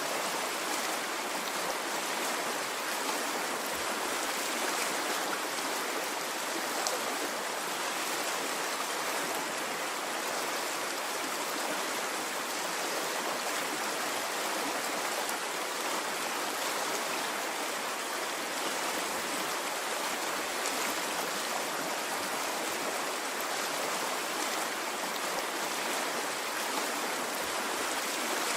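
A stream of water flowing, a steady rushing with no swells or breaks.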